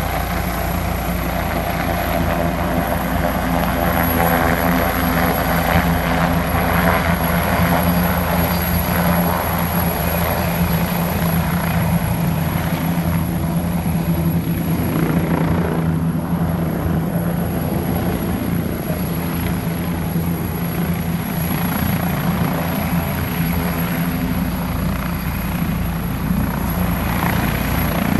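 A helicopter running close by: a rapid, steady rotor beat over a droning engine tone, holding level throughout.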